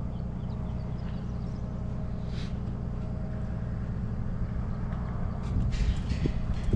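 Tow truck engine idling steadily, with a few light clanks and rattles near the end.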